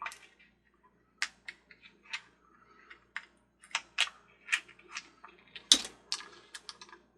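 Small glass cartridge fuses clicking and clattering against each other and a hard surface as they are picked through by hand, in irregular light clicks with one louder clack just before six seconds in.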